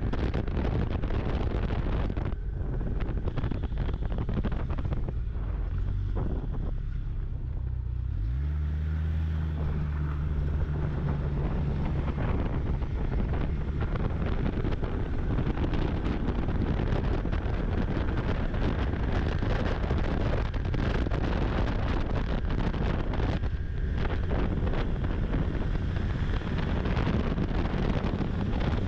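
Snowmobile engine running under way, with wind buffeting the microphone. About eight seconds in, a low engine drone rises briefly in pitch and then holds steady for a few seconds.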